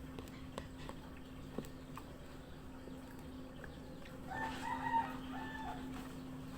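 A rooster crows once near the end, a single pitched call of about a second and a half, over a steady low hum and a few faint clicks.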